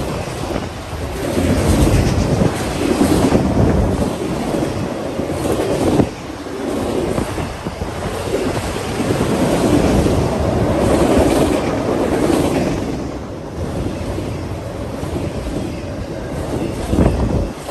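A train passing on the tracks: a continuous rumble of wheels on rail that swells and eases in waves, with a sharp knock about six seconds in and another near the end.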